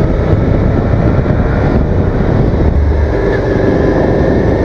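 Suzuki SV650's V-twin engine running steadily while being ridden, with a low wind rumble on the microphone.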